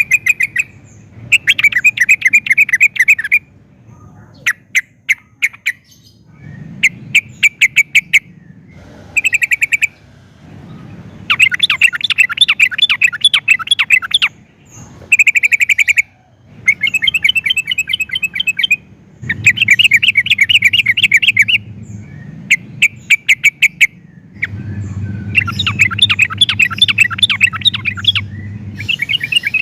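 Yellow-vented bulbul (trucukan) singing: bursts of rapid, bubbling notes lasting one to four seconds each, repeated with short pauses between them.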